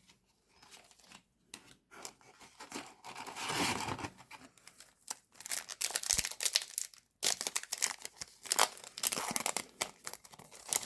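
Yu-Gi-Oh booster pack foil wrappers torn open and crinkled by hand, with cards rustling, in irregular spells of handling.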